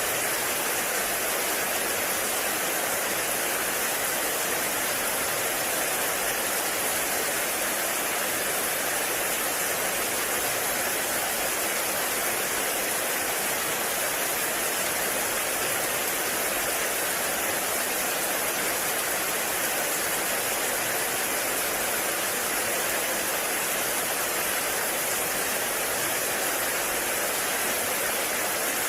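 Heavy rain falling steadily in a forest, a dense even hiss with no breaks or single drops standing out.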